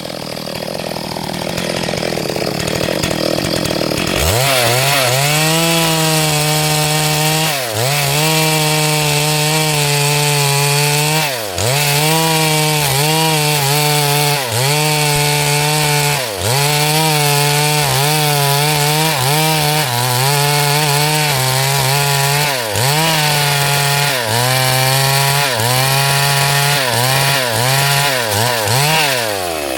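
Stihl MS382 two-stroke chainsaw running at full throttle as it rips through a hardwood log. Its engine speed dips briefly and picks back up about every two to four seconds, then drops off near the end. The first few seconds are quieter before the saw comes up to full speed.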